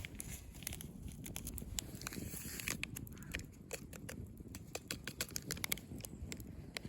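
Wood fire crackling, with irregular sharp snaps and pops over a low steady rumble.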